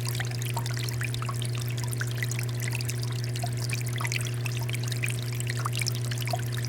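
Water fountain flowing: a steady pour with many small splashes and trickles, over a steady low hum.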